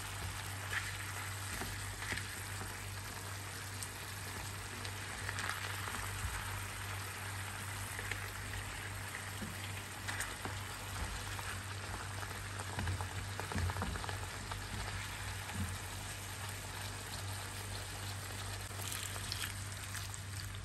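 Chicken pieces frying in soy sauce in a nonstick pan, a steady crackling sizzle over a low steady hum, with the spoon occasionally stirring the pieces. Near the end, water begins pouring into the pan.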